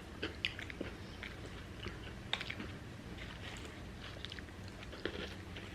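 Close-up mouth sounds of people eating a burger and fries: wet chewing and biting with scattered small crunchy clicks and crackles.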